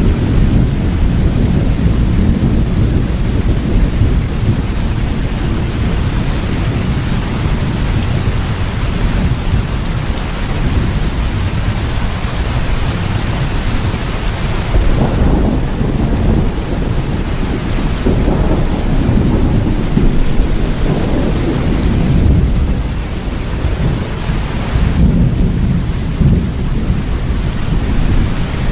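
Steady heavy rain with a deep thunder rumble underneath that swells and fades several times.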